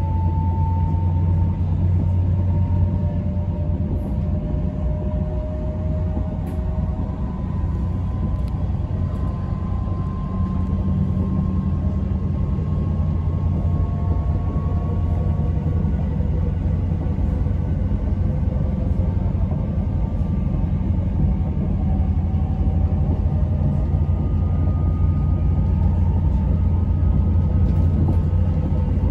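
Passenger train running along the track, heard from inside the carriage: a steady low rumble of the wheels on the rails, with a faint whine that slowly rises and falls in pitch.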